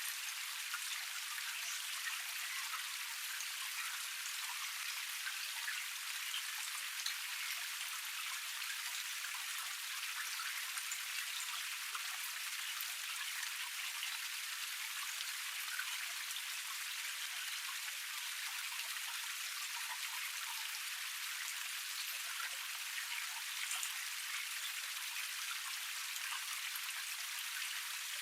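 Small cascade with water spilling and splashing over rocks: a steady, thin hiss full of tiny splashes and drips, with almost no deep rumble.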